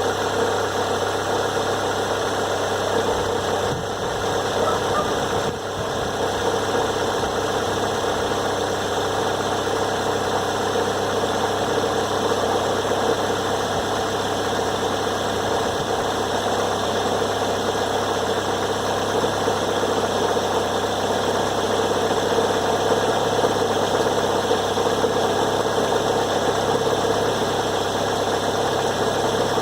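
2006 Toyota Corolla running steadily at idle just after being started, with a steady hum through it. The owner hears an odd noise like this only when the car is put into Drive, 1, 2 or Reverse soon after a cold start. It goes away after about two minutes, and mechanics have not agreed on its cause.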